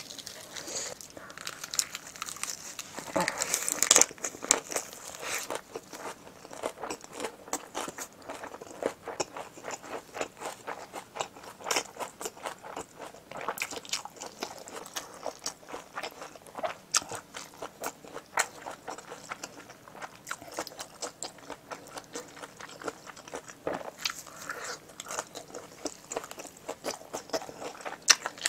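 Close-miked chewing of a lettuce-leaf wrap with spicy braised pig's trotter meat: crisp, wet crunching of fresh leaves and many small sharp clicks, loudest about three to four seconds in.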